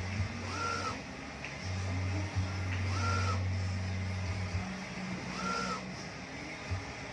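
Mimaki UJP-3042MkII EX UV flatbed printer at work: a short motor whine rises and falls about every two and a half seconds as the print carriage moves, over a low hum that cuts in and out.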